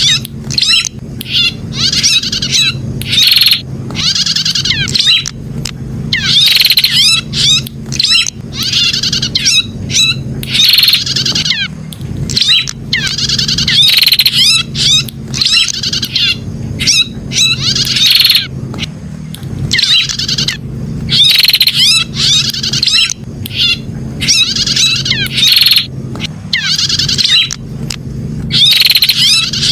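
Prenjak (prinia) calling: repeated bursts of rapid, high chirping, each a second or two long with short gaps between them, over a steady low hum.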